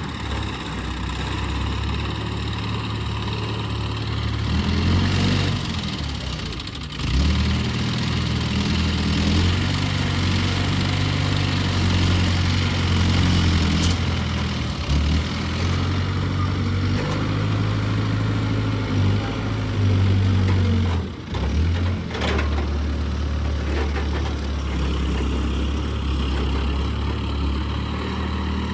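Heavy diesel engine of a wood-loading crane running under working load, its pitch rising and falling repeatedly as it revs, with brief drops around seven and twenty-one seconds in.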